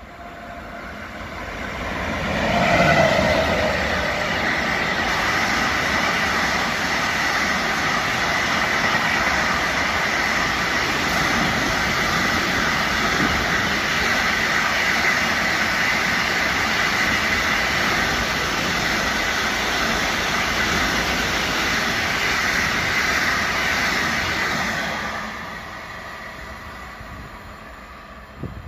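Freight train hauled by an electric locomotive passing close by, its wagons loaded with containers and tank containers. The noise swells as the locomotive arrives about three seconds in, holds as a steady rush of wheels on rail with a high steady tone while the wagons go by, and falls away near the end.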